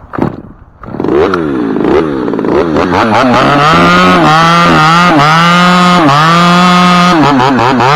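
Two-stroke chainsaw started up about a second in, revved, then held at high revs with brief dips in pitch, as when the throttle is eased and squeezed again or the chain takes load.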